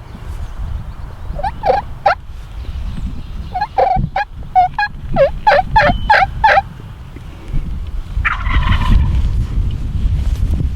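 Wild turkeys calling: a pair of notes, then a run of about ten quick, evenly spaced notes, then a rattling call about eight seconds in, over a low rumble of wind.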